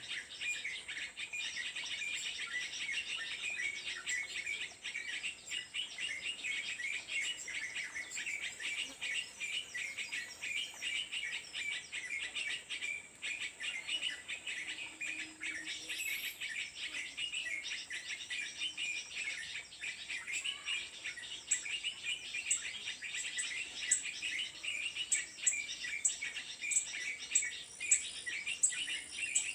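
Small birds chirping rapidly and continuously over a steady high insect buzz. From about two-thirds of the way in, sharp high ticks repeat about once a second.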